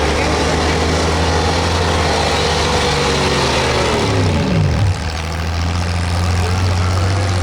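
Street stock pulling truck's gasoline engine running hard, then its pitch falls steeply over about two seconds as the revs drop off, about five seconds in. A steady low engine drone follows.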